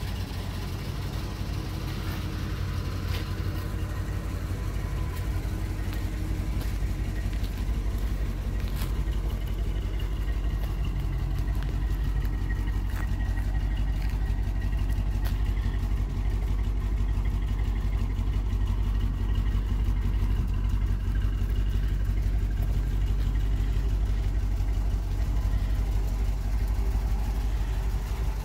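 1973 Cadillac Eldorado's 500 cubic-inch V8 idling steadily with a low, even exhaust note, a little louder after the first few seconds; the all-original engine runs well.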